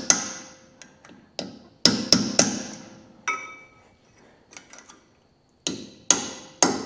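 Hammer tapping the steel locking tabs of a Toyota Hilux front hub-nut lock washer over onto the nuts: about ten sharp metallic taps at uneven intervals, some ringing briefly, with a short pause just past halfway.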